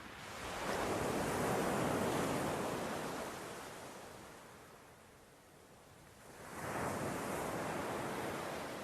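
Sea waves breaking on the shore: two surges of surf, one rising about half a second in and fading away, the next coming in at about six and a half seconds.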